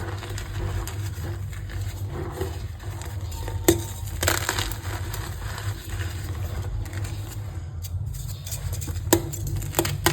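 Reformed gym chalk block being crushed, crisp crackling and crumbling with a few sharper snaps, the loudest about a third of the way in and near the end. A steady low hum sits underneath.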